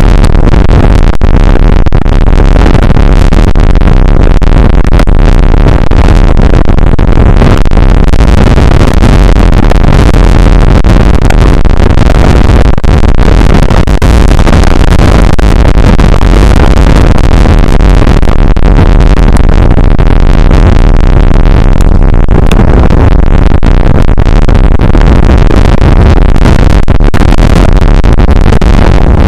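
Rain shower and wind buffeting an outdoor weather camera's microphone, overloading it into a continuous, distorted noise heaviest in the low end.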